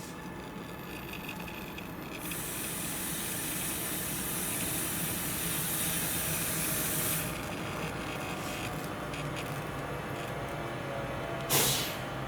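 Compressed air venting from a train's pneumatic brake system: a steady hiss for about five seconds that cuts off abruptly, then a short, sharp blast of air near the end, over a low steady engine hum.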